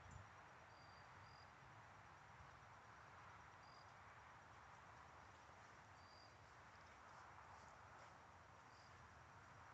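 Near silence: faint hiss with a few faint, short, high chirps scattered through.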